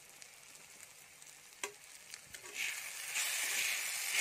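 Tomato and spice masala with ground peanut frying in a kadhai over high flame. It is quiet at first, with a single click about a second and a half in. Then a sizzle builds from about two and a half seconds in as a spatula starts stirring.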